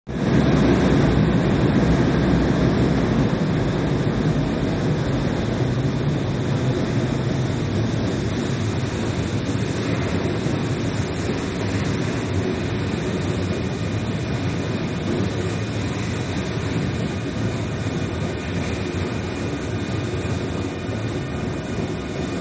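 Nankai Railway express train pulling into the platform: a steady rumble of wheels on rails and running gear that eases off gradually as it slows. Thin, high, steady tones join in near the end.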